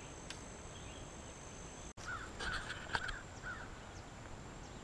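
Faint outdoor ambience with a steady high-pitched thin tone, broken by a brief dropout about two seconds in. Just after it come a few short, harsh bird calls over about a second and a half.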